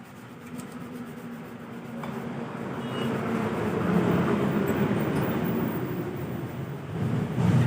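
Low vehicle rumble with road-like noise that builds over about four seconds and then holds, with a brief louder surge near the end.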